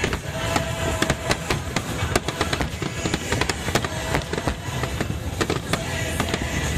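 Fireworks finale: a dense run of firework bursts, many sharp bangs and crackles a second, with music playing under it.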